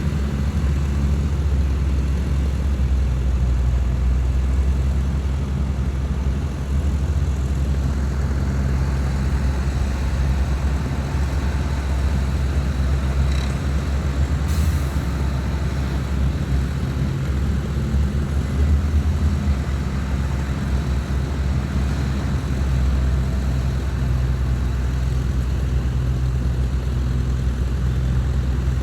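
Heavy diesel engines of earthmoving machinery (bulldozer and dump trucks) running steadily with a low engine drone. A brief sharp click or hiss comes about halfway through.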